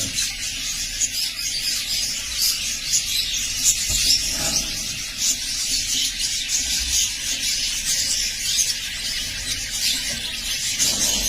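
A flock of budgerigars chattering, a steady dense mix of scratchy warbling and short high chirps.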